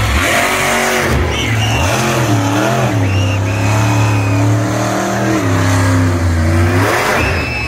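Monster truck engine revving hard, its pitch climbing and dropping several times.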